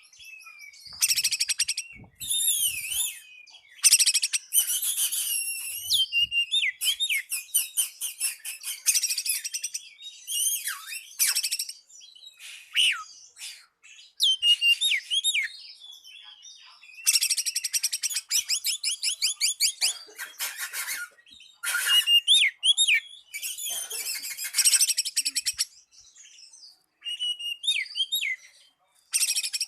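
Oriental magpie-robin (kacer) singing a varied song of whistled phrases and rapid trills, broken by short pauses. It is a territorial challenge song, calling out a rival male.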